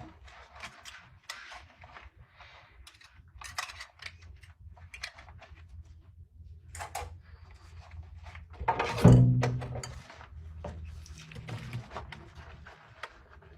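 Dishes and utensils clattering and clinking as they are washed by hand, in short irregular knocks, with one loud thunk about nine seconds in.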